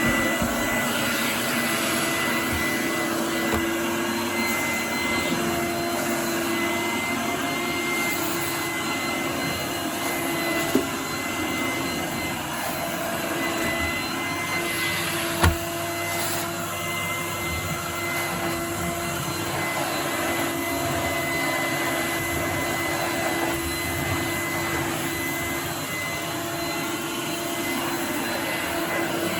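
1988 Numatic Henry HVR200 vacuum cleaner running steadily after a refurbishment, a steady motor hum with a thin high whine over it. Two brief knocks about 11 and 15 seconds in.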